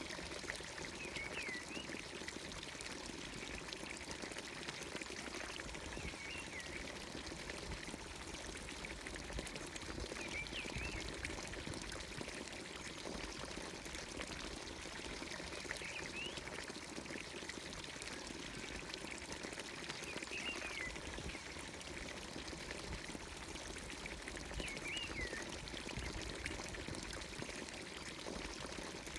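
Water pouring steadily from the spout of a traditional Anatolian village fountain. A bird repeats a short call about every four to five seconds over it.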